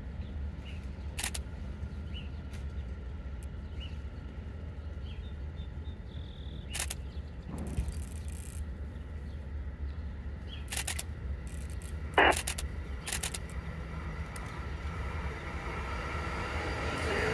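Amtrak Acela II (Alstom Avelia Liberty) high-speed trainset approaching: a steady low rumble that grows louder over the last couple of seconds as the train nears. A handful of sharp clicks are scattered through it, the loudest about 12 seconds in.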